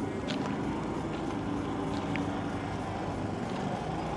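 Steady low hum of an engine running, under outdoor background noise, with a few faint small clicks.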